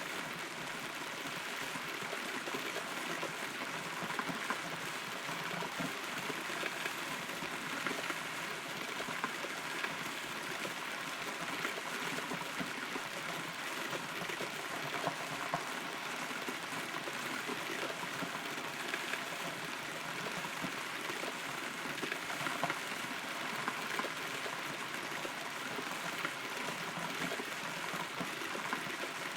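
Steady rain heard from inside a hollow rotten tree: an even hiss of rainfall with many single drops ticking sharply on the wood.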